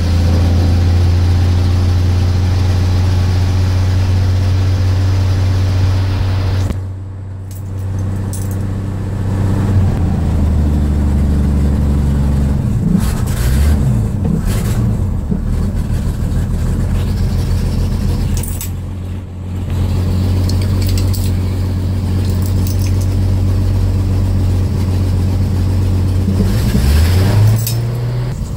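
Worn-out Chevrolet 250 straight-six in a 1974 GMC C1500 running steadily just after a cold start with no choke, still warming up. Its speed sags briefly twice, about 7 and 19 seconds in, and rises in a short rev near the end.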